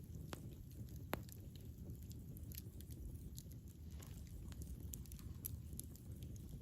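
Campfire burning: a steady low rumble of flames with scattered sharp crackles and pops from the burning wood, the loudest pop about a second in.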